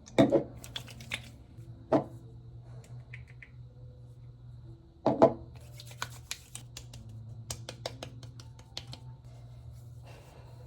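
Knocks and sharp clicks of small objects being handled, three louder knocks spread across the first five seconds and a quick run of clicks after, over a steady low hum.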